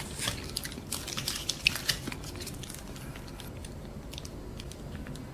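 Close-miked chewing of a crispy fried chicken nugget: a run of small wet clicks and crunches that thins out after about two seconds.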